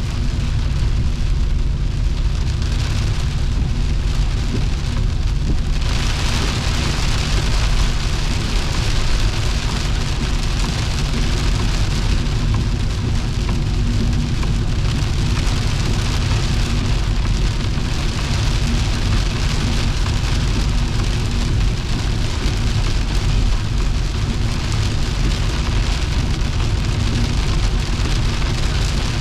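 Heavy rain on a moving Volvo V70 2.5T, over a steady low drone from its turbocharged five-cylinder engine and tyres on the wet road. The rain hiss gets louder about six seconds in.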